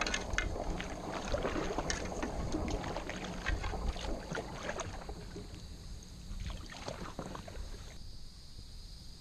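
Kayak paddling: water splashing and dripping off the paddle blades and lapping at the hull, with a low wind rumble on the microphone. The splashing thins out about five seconds in and has stopped near the end.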